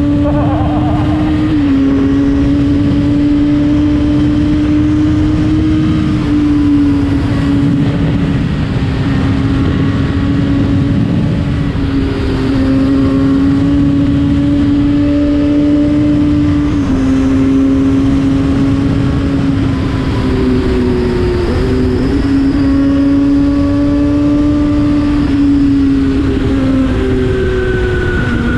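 Yamaha FZ6 inline-four engine with an Akrapovic exhaust running under way at a steady, fairly high pitch, over wind and road noise. The pitch drops briefly about two seconds in, again around two-thirds of the way through, and near the end.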